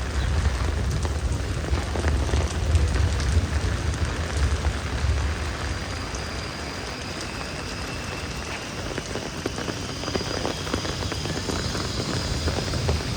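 Heavy rain falling: a dense, steady patter of drops. A low rumble under it eases off about halfway through.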